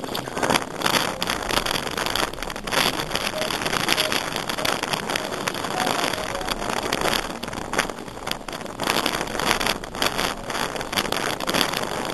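Wind buffeting the microphone over choppy water slapping and splashing against a kayak, in irregular gusts and splashes.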